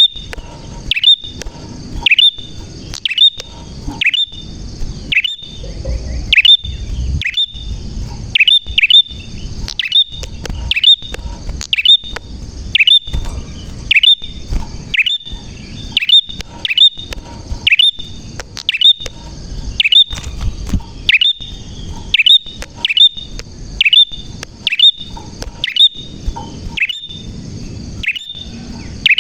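Prinia (prenjak) singing in full voice: a long run of sharp, loud chirps, each a quick downward-sweeping note, repeated about one to two times a second.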